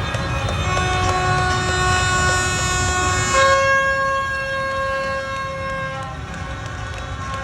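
Many horns and plastic trumpets blaring at once in a street celebration crowd, several long held tones overlapping and changing pitch partway through, over the rumble of motorbike traffic.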